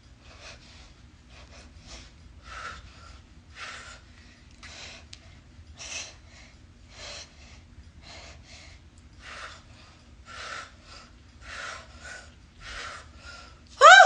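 A woman's short, sharp exhales, about one a second, as she throws punches in a workout. A brief rising vocal cry comes right at the end.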